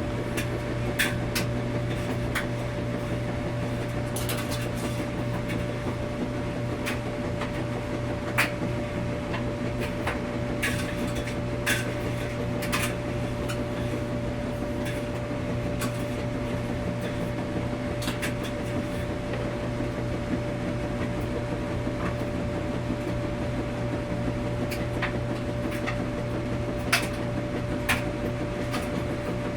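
Laundromat washing machine running: a steady motor hum with a constant tone, and irregular sharp clicks and taps scattered throughout.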